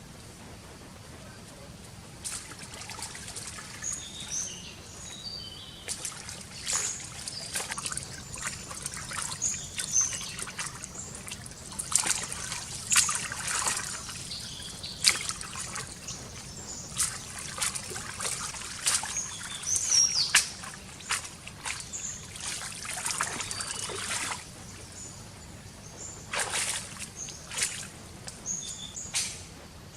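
Water trickling and splashing in irregular bursts, with small birds chirping.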